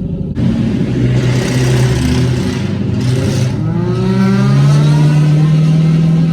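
Car engine revving hard through a loud exhaust: the noise jumps up about a third of a second in, the pitch climbs around the middle, then holds high for the last couple of seconds.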